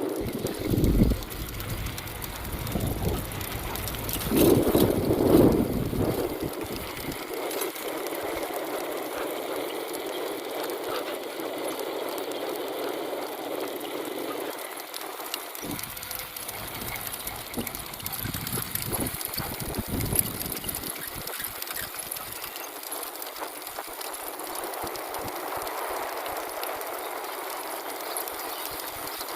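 Riding noise from a moving bicycle: a steady rattle and hiss with many small clicks. A louder low rumble comes about four to six seconds in.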